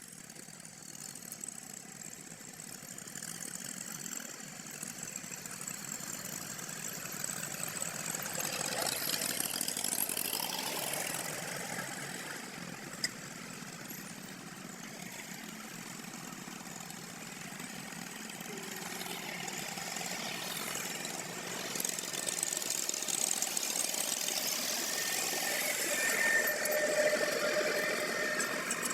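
Tractor engine running as it works the field, growing louder and easing off twice, with a single sharp click partway through.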